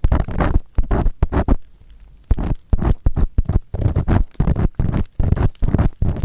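Earpick scraping firmly inside the silicone ear of a 3Dio binaural microphone, a quick series of short, rough, close-up scratching strokes, about three or four a second, with a brief pause about two seconds in.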